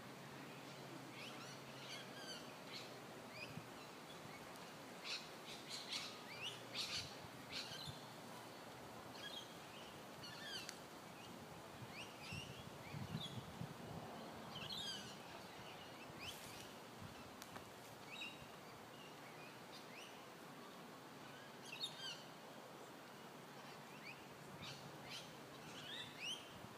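Birds chirping: many short, scattered calls over a faint steady background hiss.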